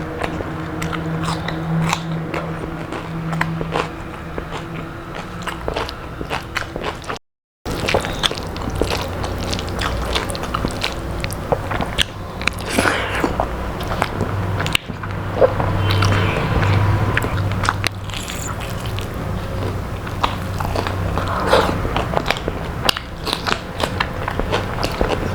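Close-miked chewing and crunching of crispy fried food, with repeated bites and mouth clicks over a low steady hum. The sound drops out completely for a moment about seven seconds in.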